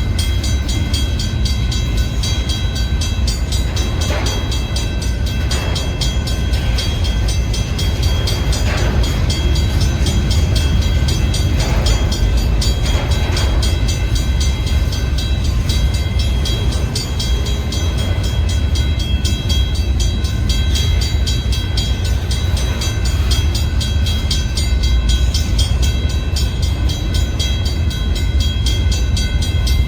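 Freight cars of a very long manifest train rolling past, a steady loud low rumble of steel wheels on rail, with a few faint knocks in the first half.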